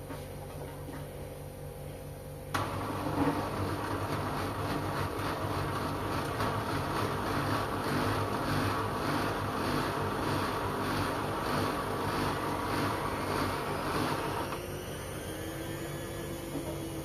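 LG washing machine running with a steady hum. About two and a half seconds in, a louder rushing noise with a fast, even pulsing starts suddenly. It stops about fourteen and a half seconds in, leaving the hum and a faint motor tone that bends in pitch.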